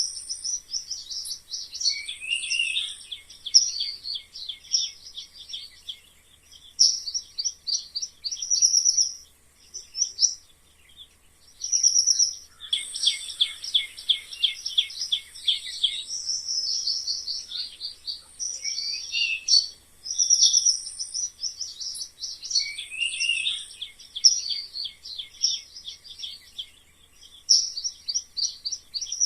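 Mice squeaking: rapid runs of short, high-pitched chirps and trills, with now and then a quick falling squeak, keeping on almost without a break.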